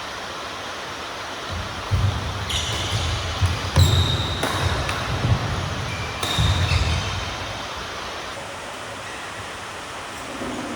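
Badminton rally: players' feet thudding on the court, shoes squeaking and sharp racket hits on the shuttlecock, from about two seconds in until about seven seconds in.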